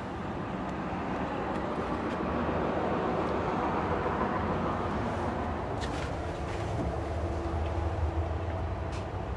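Steady low rumble of a vehicle engine, with a few faint clicks.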